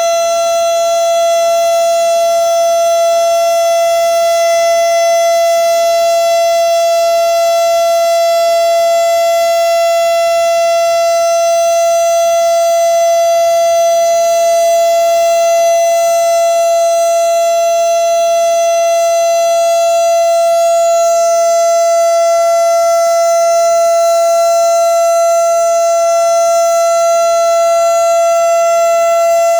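Outdoor civil-defense warning siren sounding a tornado drill: one loud, steady, unwavering tone that holds for the whole stretch.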